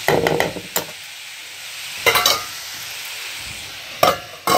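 Grated cauliflower and capsicum frying in a pan, sizzling steadily, while a steel spatula scrapes and stirs it in short spells at the start and about two seconds in. Near the end a metal clatter as a steel lid is set on the pan.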